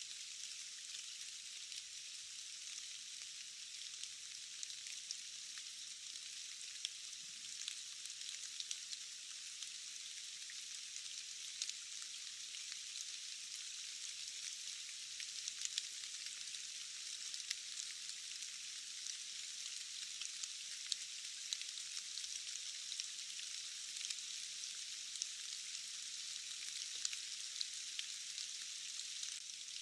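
Steady rainfall, a high-pitched even hiss with many sharp, scattered drop clicks and almost no low end.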